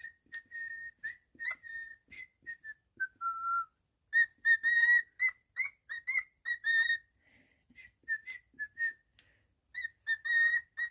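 Cockatiel whistling a tune: a string of short, clear notes mostly at one pitch, with a lower held note about three seconds in and a louder run of notes in the middle.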